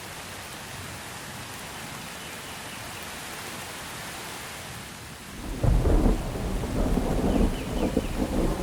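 Steady rain falling, then about five and a half seconds in a loud rolling rumble of thunder breaks in and keeps rumbling.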